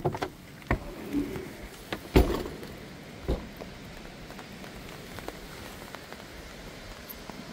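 A few sharp knocks and clunks in the first three seconds or so, the loudest about two seconds in, then steady rain and storm wind.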